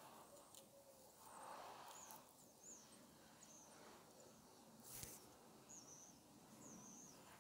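Faint bird chirps: short, high calls, one every second or so, over a quiet outdoor hush, with a single sharp click about five seconds in.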